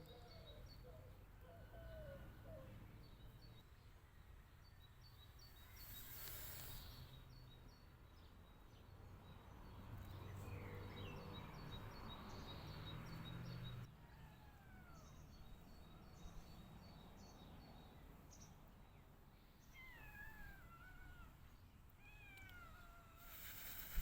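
A cat meowing faintly several times, short calls that slide down in pitch, over a faint high chirping in the background.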